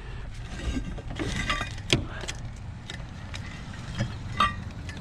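Electrical cords being handled and gathered, rustling with a few sharp clinks of plugs knocking together, the loudest near two seconds in and two more around four seconds, over a steady low hum.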